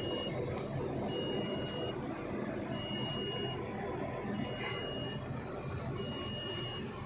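Heavy construction machine's engine running under a back-up alarm: a single high beep, each about a second long, repeating about every one and a half seconds, five times.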